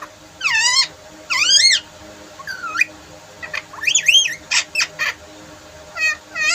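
Pet parrot calling: a string of about ten short, pitched calls that swoop up and down.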